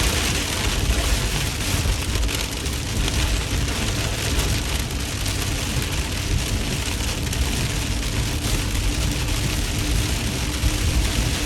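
Heavy rain on a moving car, heard from inside the cabin, over steady road noise with a low rumble.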